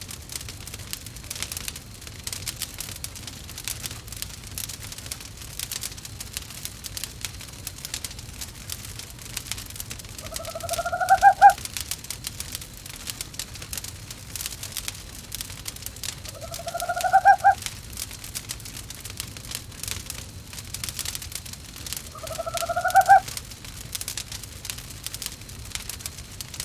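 An owl hooting three times, each hoot a single call about a second long that rises in pitch and grows louder to its end, over a crackling wood fire.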